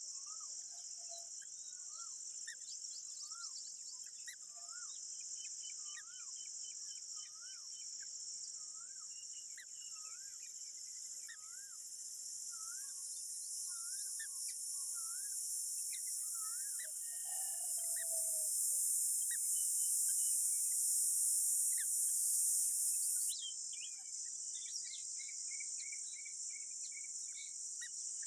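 Steady high-pitched buzz of insects, crickets or cicadas, that swells louder through the middle and drops off suddenly about three-quarters of the way through. Over it, a bird repeats a short rising-and-falling call note many times in the first half, with scattered chirps later.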